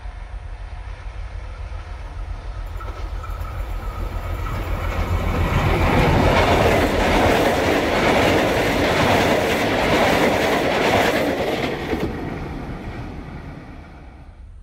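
Prambanan Ekspres (Prameks) diesel multiple unit train passing close by: its rumble and wheel clatter on the rails build up as it approaches, are loudest as the cars go past, then fade away near the end.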